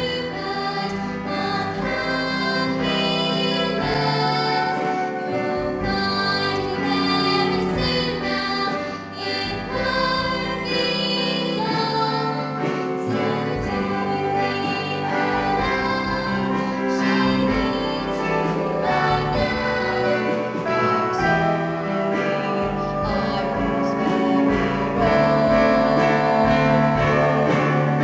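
A vocal trio from a stage musical: voices singing together over instrumental accompaniment, growing a little louder near the end.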